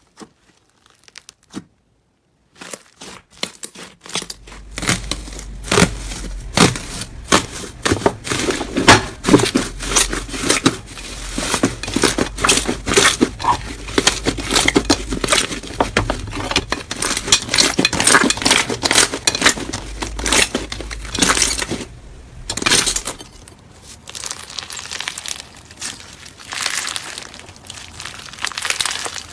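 Slime being squeezed and worked by hand, giving a dense run of irregular crackles and small pops. It starts a couple of seconds in, thins out about three-quarters of the way through, then picks up again.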